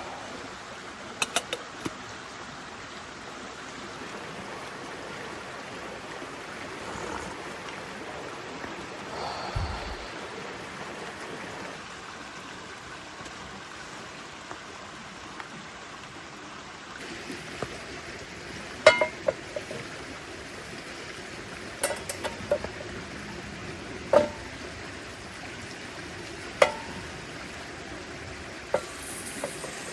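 Scattered sharp clinks and knocks of metal cookware or utensils being handled, about half a dozen, the loudest in the second half, over a steady hiss.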